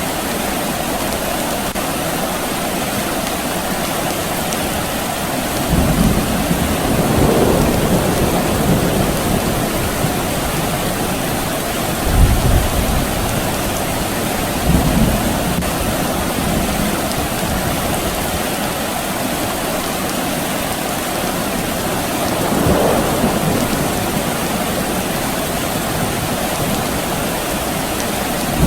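Steady rain with several low rolls of distant thunder spread through it; the sharpest comes about twelve seconds in.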